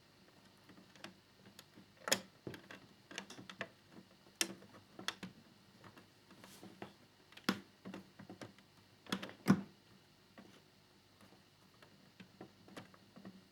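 Irregular light clicks and taps of plastic model parts and a small screwdriver being handled while tiny screws are fitted into a scale-model motorcycle's fairing. The sharpest knocks come about two seconds in and again about two-thirds of the way through.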